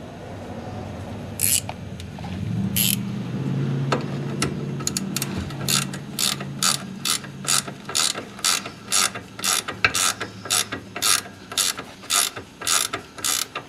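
Ratchet wrench tightening the nut on a steering ball-joint stud. Its pawl clicks in a short burst on each back-swing, at first twice with a pause, then about two a second from a third of the way in.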